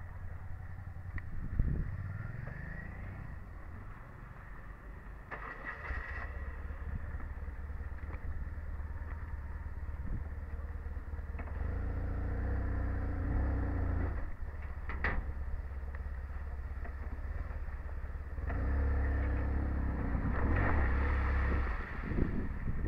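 Motorcycle engines running, getting louder twice as they are revved, with a couple of sharp clicks.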